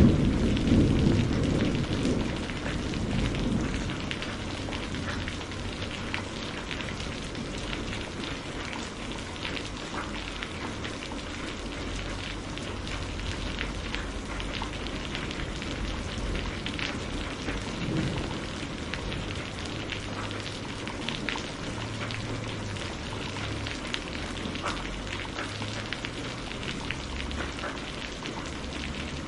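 Steady rain falling, with many small drop ticks. A roll of thunder dies away over the first few seconds, and a fainter low rumble swells briefly about two-thirds of the way through.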